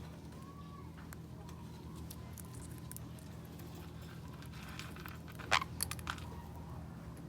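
Sun conure cracking sunflower seeds with its beak: scattered small sharp clicks and cracks, with a louder run of three about five and a half seconds in, over a steady low hum.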